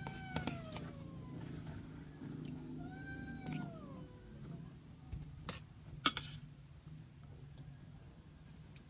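A cat meowing twice, each a long call that rises and then falls in pitch, followed by a few sharp clicks, the loudest about six seconds in.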